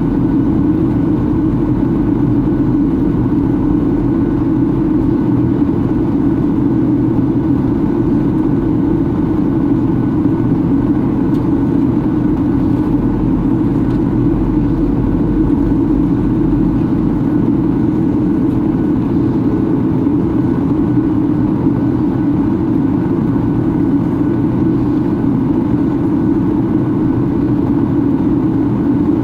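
Steady roar inside the cabin of a Boeing 737-800 on its descent: the engines running and airflow over the fuselage, unchanging throughout.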